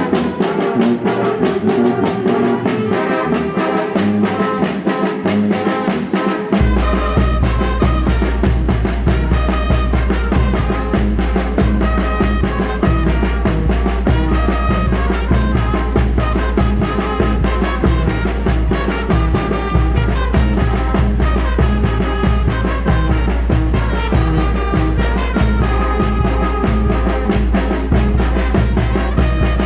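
A Mexican banda, a brass band with percussion, playing a lively tune. A deep bass comes in strongly about six seconds in and carries on under the melody.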